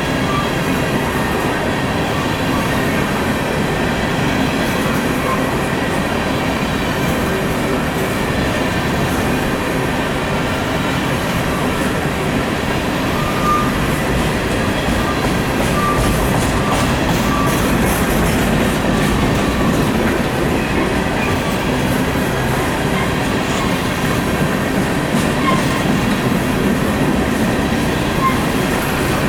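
Coal train cars rolling past: a steady, loud rumble of steel wheels on rail, with a few short, faint wheel squeals.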